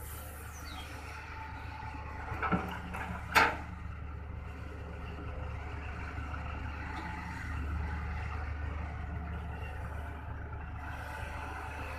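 Diesel engine of a Hitachi ZX200-1 excavator running steadily while it digs and loads dirt into a dump truck, with two sharp clanks about two and a half and three and a half seconds in. The engine grows louder a little past halfway.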